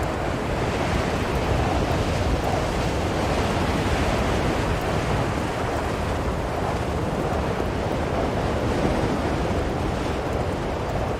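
Blizzard wind blowing, a steady rushing noise with only slight swells.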